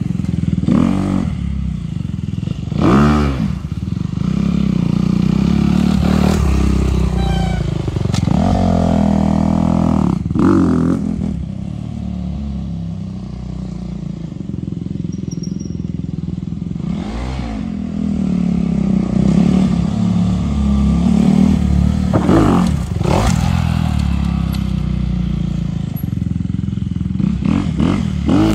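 Dirt bike engine running and being revved repeatedly, its pitch climbing and falling several times, with sharp revs about three seconds in, around ten seconds, and again near the end.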